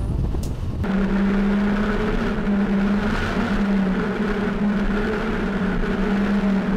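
Vehicle engine running steadily at a constant speed, a steady hum with a slightly wavering pitch. It comes in abruptly under a second in, replacing a different, busier sound.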